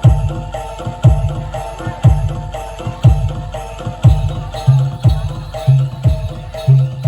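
Bantengan accompaniment music: a low drum struck about once a second, with ringing metallophone notes repeating between the beats. From about halfway through, a second, shorter low drum note falls between the main beats.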